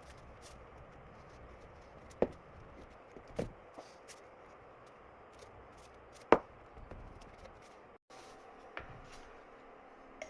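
A few scattered sharp knocks and clicks of hard parts and tools being handled, the loudest about six seconds in.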